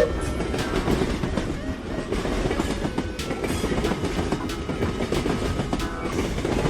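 Train running along the track: a steady heavy rumble with repeated clicks of the wheels passing over rail joints.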